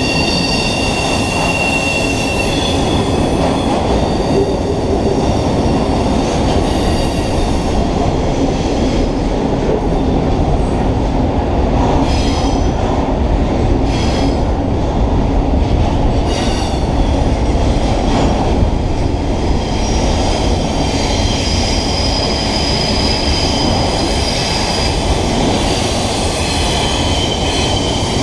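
Double-stack container cars of a freight train rolling past close by: a steady, heavy rumble of steel wheels on rail, with high wheel squeal that comes and goes. A few sharp knocks sound about halfway through.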